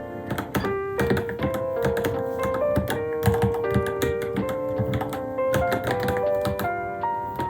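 Rapid keystrokes on a Varmilo Minilo mechanical keyboard, many clicks a second, with background music playing.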